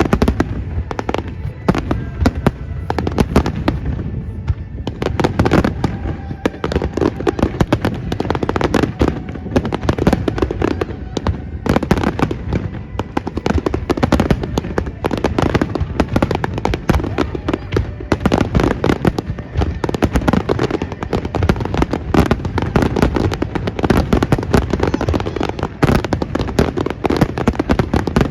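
Fireworks finale: a dense, unbroken barrage of aerial shell bursts and crackling, with rapid overlapping bangs all the way through.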